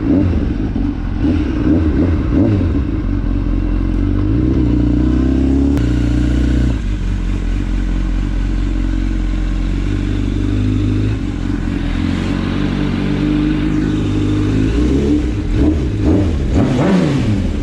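Honda CBR1000 sportbike's inline-four engine under hard riding, its pitch rising and falling with the throttle.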